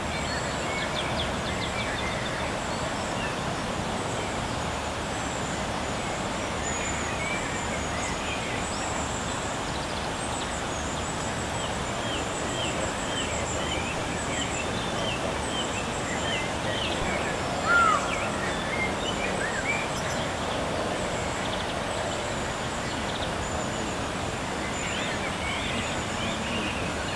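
Birds chirping and calling over a steady background hiss, with one louder short call about two-thirds of the way through.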